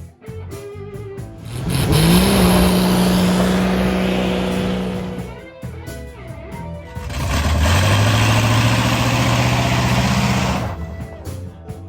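A car engine accelerating hard twice, its pitch climbing and then holding at high revs each time, over background music.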